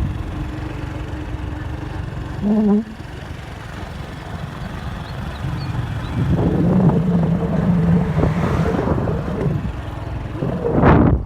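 Storm wind gusting hard against the microphone with a steady low rumble. A short pitched sound comes about two and a half seconds in, a longer pitched tone sounds in the middle, and a sharp loud gust comes near the end.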